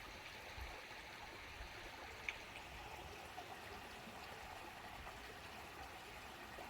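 Faint, steady rush of running water from a backyard pond waterfall, with one small click a little over two seconds in.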